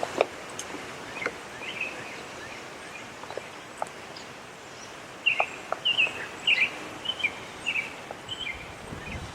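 Quiet outdoor background with a few faint clicks, then a bird calling a quick run of short, high chirps through the second half.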